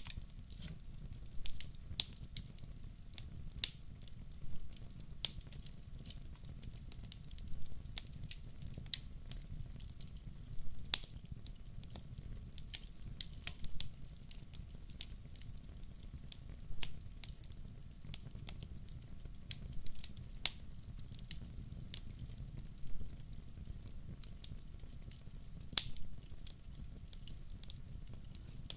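Firewood burning in a fireplace, crackling and popping at irregular intervals over a low, steady rumble.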